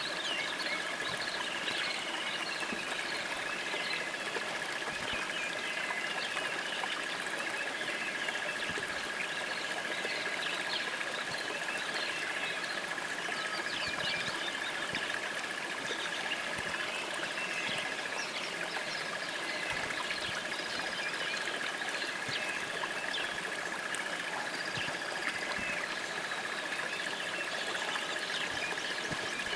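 Nature soundscape of a trickling stream with many small birds chirping over it, and a steady high tone underneath throughout.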